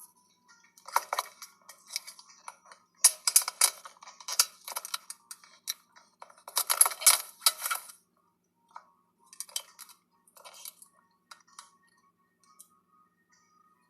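Clusters of short, sharp clicks and clinks, dense during the first eight seconds and then only a few scattered ones.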